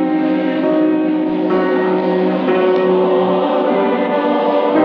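Mixed choir singing full sustained chords, moving to a new chord about every second.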